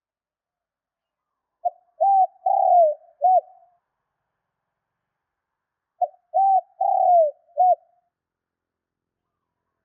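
Spotted dove cooing: two phrases about four seconds apart, each of four notes: a short note, a second note, a longer note that falls away, and a short final note. This is a lure call used to provoke wild spotted doves into answering.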